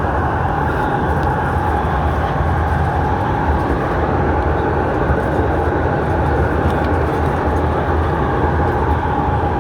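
Steady running noise of an MTR East Rail line R-train (Hyundai Rotem electric multiple unit) under way, heard from inside the carriage: a constant rumble with a faint steady hum and no breaks.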